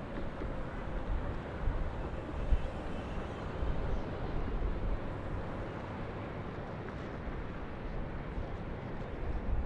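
City ambience over a river heard from high up: a steady low rumble of distant traffic and boat engines.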